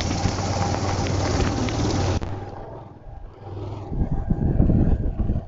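Vehicle engine running, with a steady hum and hiss for about two seconds, then low gusts of wind buffeting the microphone toward the end.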